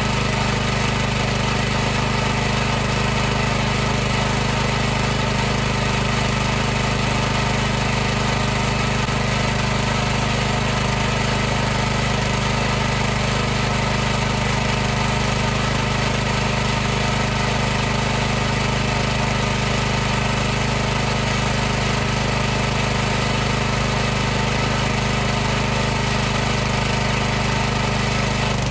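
High-pressure washer running steadily, with a constant motor-and-pump hum over an even hiss.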